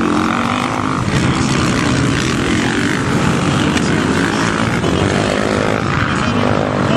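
Motocross motorcycle engines running on the track, their pitch rising and falling as the riders work the throttle.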